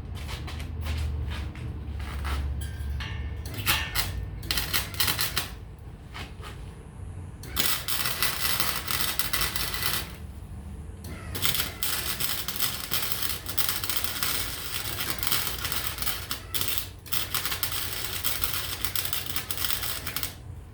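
Electric welding arc crackling as welds are laid on steel: short bursts for the first several seconds, then three longer runs of a few seconds each, broken by brief pauses.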